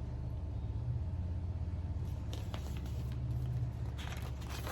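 A low, steady rumble that swells twice, with the light rustle and clicks of a book's page being turned near the end.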